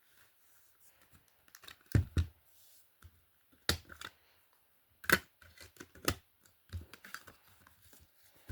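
Album packaging being handled and opened by hand: irregular small clicks and taps with a few louder knocks, the loudest about two, four, five and six seconds in.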